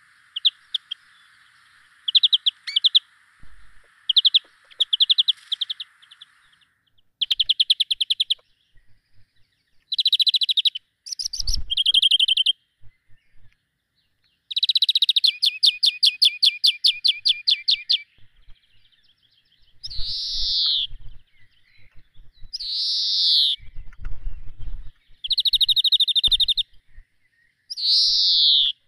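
A songbird singing in a series of short, rapid trilled phrases, with one long trill about halfway and several downward-sliding whistled notes near the end. A steady hiss runs beneath the song for the first few seconds.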